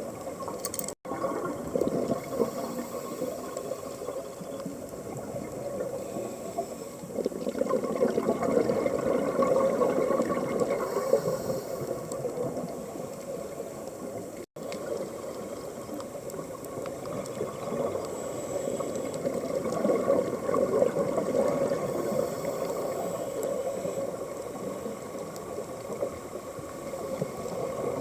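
Underwater bubbling and rushing water picked up by a dive camera's microphone, swelling louder twice, with two split-second dropouts.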